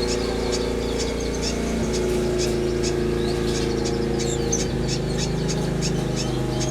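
Small aviary finches and waxbills chirping, short high calls several times a second. Underneath runs a steady low drone that steps down in pitch twice.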